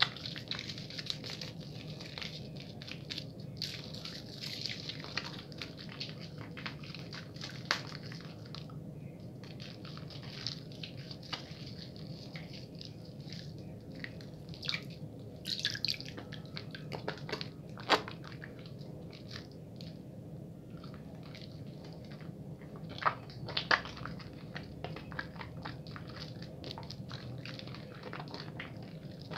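Bar of soap being lathered with water: wet squishing and crackling lather with many small clicks and pops, a few louder ones scattered through.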